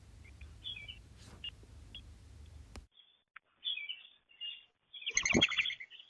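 Small birds chirping in short, high notes, with a louder burst of sound just after five seconds in.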